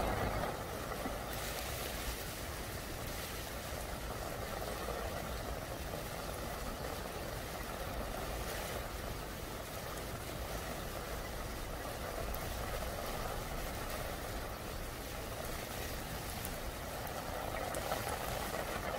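Steady rain falling on a wet stone-paved plaza, an even, unbroken hiss.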